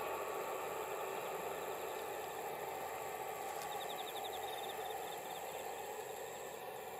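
Distant Resort Minori KiHa 48 diesel train running along the line, a steady noise that slowly fades as it draws away. Insects sound over it: a thin, steady high whine and, about four seconds in, a short run of rapid ticking.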